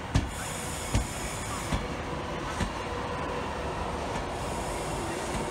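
Avanti West Coast train rolling past along the platform, with a steady hiss and hum. Four heavy wheel thumps come within the first three seconds as its wheels cross a rail joint.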